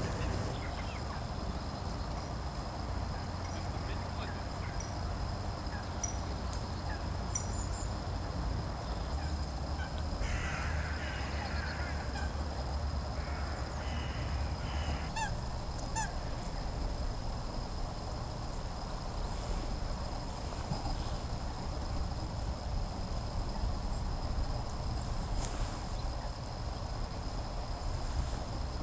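Geese honking in two bouts near the middle, with a few short high chirps of small birds and a steady low rumble underneath.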